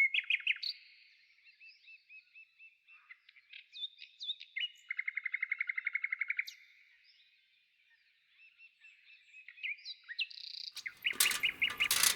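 Songbirds singing and calling with short chirps and whistles, including a rapid even trill lasting about a second and a half near the middle. Near the end a quick run of sharp knocks and clatter sets in.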